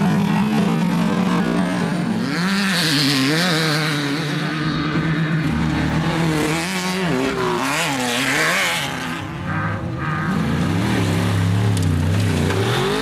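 Off-road race car engines running hard, the revs rising and falling again and again; a second, lower engine note comes in near the end.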